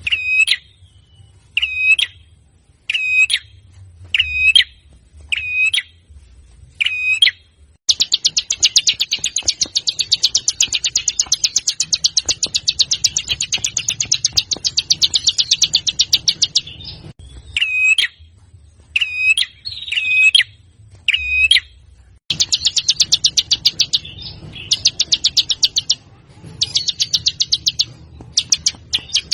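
Songbird song: short, sharp high calls repeated about every second and a half, alternating with long, very fast trills that run several seconds each, the longest near the middle.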